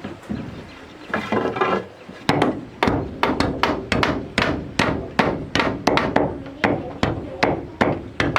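Hammer striking wood in a steady run of blows, about three a second, starting about two seconds in.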